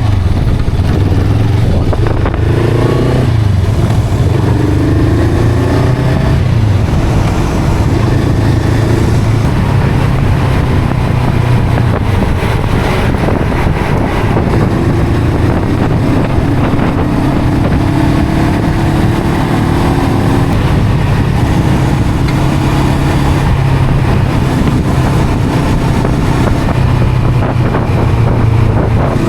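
Honda CL500's parallel-twin engine and exhaust while riding: the engine note climbs several times in the first few seconds as it pulls through the gears, then settles to a steadier cruise with a few more rises and falls.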